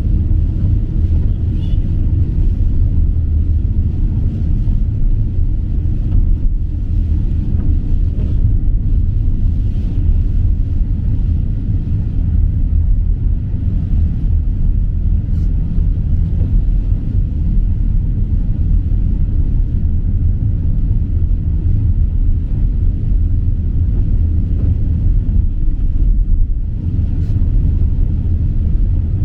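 Steady low rumble of a vehicle running, an even engine and road drone that does not change.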